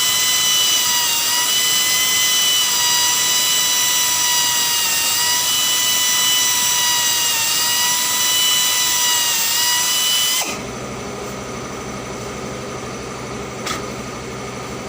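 Power tool running at a steady speed with a high whine over a loud hiss, stopping suddenly about ten seconds in. A quieter low hum carries on after it.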